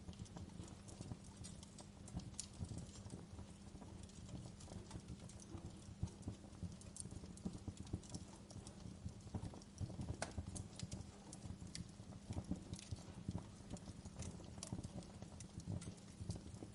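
Wood fire crackling in a fireplace: irregular sharp pops and snaps over a steady low rumble of the flames, with a louder pop about ten seconds in.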